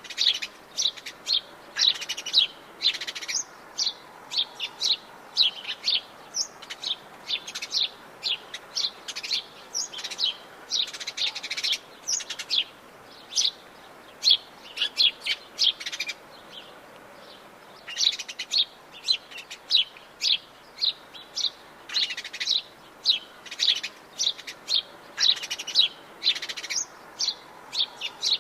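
Several songbirds chirping and trilling in quick, overlapping short phrases, with a faint steady background hiss of the forest. The calls pause briefly a little past the middle.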